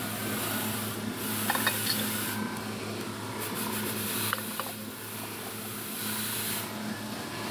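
A few light clicks and taps of carburetor parts being handled during reassembly, over a steady low hum. A high hiss comes on and cuts off several times.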